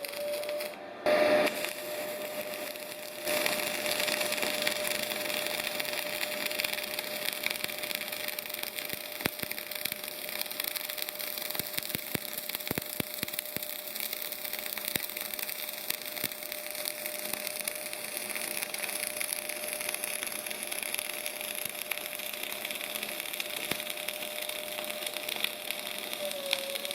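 Semi-automatic MAG welding arc crackling and sputtering steadily, with a steady high whine underneath. A short loud burst comes about a second in, and the crackle settles fuller from about three seconds on.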